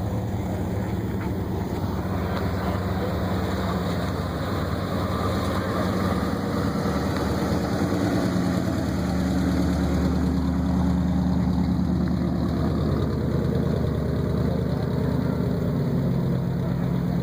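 A car engine idling steadily, getting a little louder around the middle.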